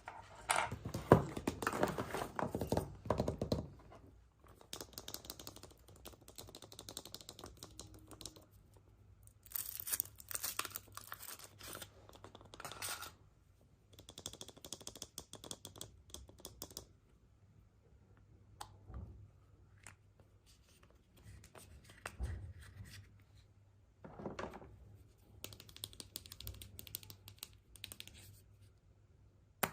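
Foil and plastic wrappers of surprise eggs being torn open and crinkled by hand, in bursts with short pauses between. The loudest tearing is in the first few seconds, and a few single clicks and knocks of small plastic parts come later.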